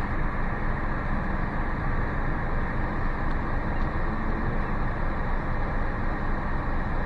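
Steady hum and hiss inside a car's cabin, with engine, tyre and ventilation noise and no distinct events.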